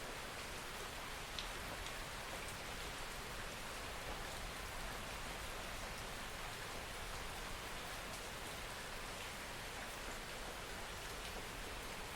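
Steady rain: an even hiss with a few faint drop ticks through it.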